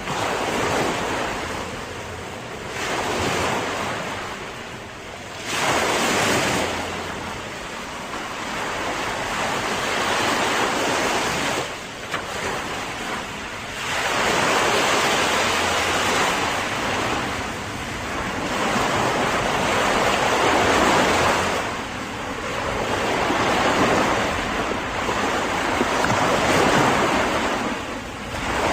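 Ocean surf: waves breaking and washing in, the noise swelling and fading in long surges every few seconds.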